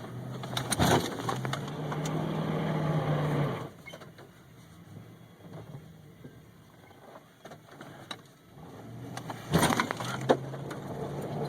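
Pickup truck engine running under load, a steady drone that fades out in the middle and returns near the end, with sharp crunching cracks of wrecked metal about a second in and again near the end.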